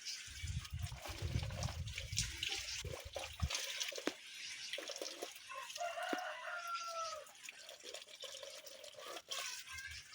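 Water splashing and dripping, as in washing by hand, with scattered small knocks. A chicken gives a short call about six seconds in.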